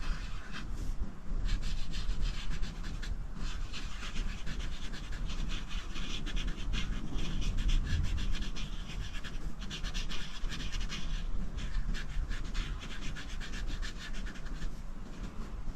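A coloring tool rubbing back and forth across paper in quick, scratchy strokes, filling in a coloring page, with a few brief pauses.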